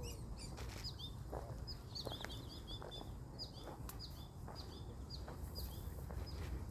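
Short, high chirps repeated about twice a second from a small creature calling, over a low steady rumble.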